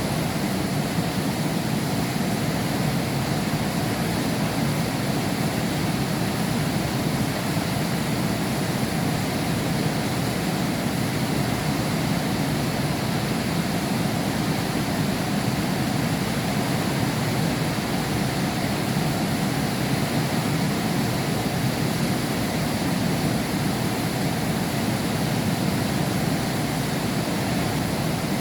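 Heavy rain falling steadily, heard through window glass as an even, unbroken rush.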